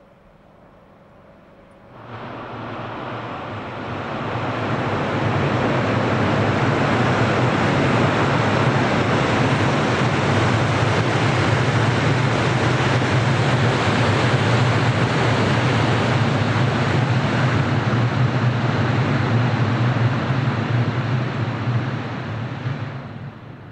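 Diesel-hauled train crossing a steel truss railway bridge: a DE10 diesel locomotive towing an unpowered 103 series electric train set. It makes a loud, steady rumble with a low drone, starting suddenly about two seconds in and dying away near the end.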